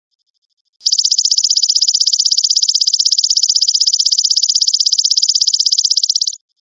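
Belalang emas ('golden grasshopper') stridulating: a loud, high-pitched trill of rapid, even pulses that starts about a second in and cuts off sharply near the end. A faint, quiet ticking of the same pitch comes before and after the trill.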